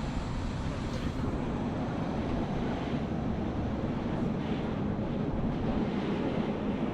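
Steady rumble of a Bernina line train running, with wind buffeting the microphone in an open observation carriage.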